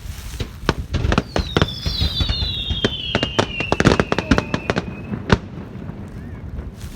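Fireworks going off: a rapid string of sharp crackling pops, thickest through the middle. A high whistle slides down in pitch over about four seconds, and one last sharp bang comes a little after five seconds in.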